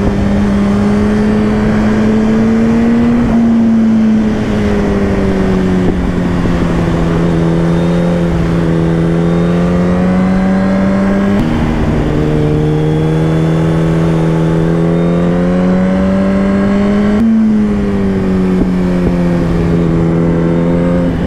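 Motorcycle engine pulling on the road, its note rising and falling with the throttle. About eleven seconds in the pitch drops abruptly at a gear change, and near the end it jumps up and then falls away, over steady wind rush on the microphone.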